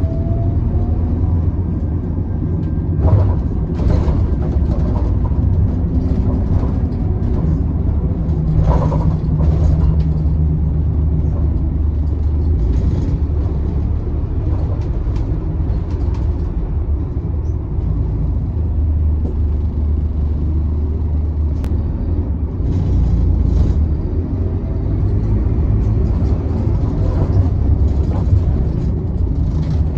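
Scania K280UB city bus with a Volgren CR228L body under way: the diesel engine and the road give a steady low rumble that rises and falls with the throttle, with short rattles and knocks from the bodywork now and then.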